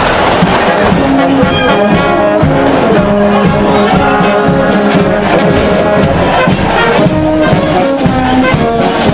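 Brass band playing a tune, with held notes that change every second or so.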